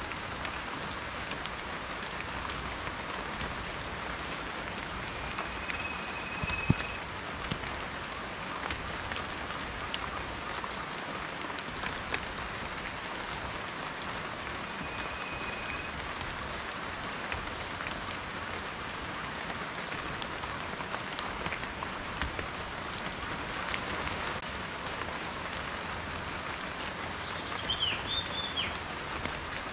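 Steady rain falling, with individual raindrops tapping sharply now and then; one close drop hit about a quarter of the way in is the loudest moment. A few short, high whistled notes come through the rain, and a brief warbling one near the end.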